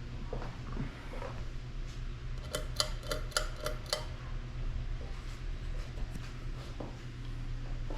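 Hunter Creekside ceiling fan running with a steady low hum. Near the middle comes a quick run of about six light, ringing clicks, about four a second.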